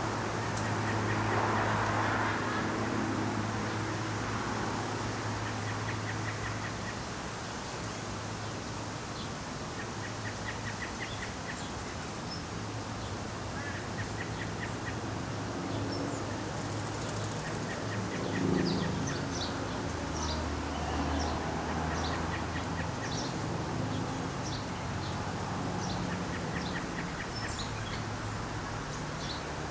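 Birds calling: many short, high chirps and quick trilled runs, busiest in the second half, over a steady low hum.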